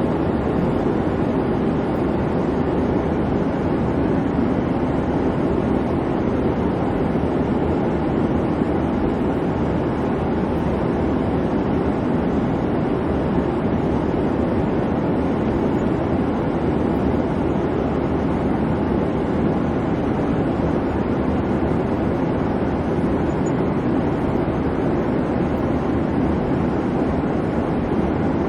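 Airliner cabin noise in flight: a steady, even rumble and rush of engine and airflow, with no changes.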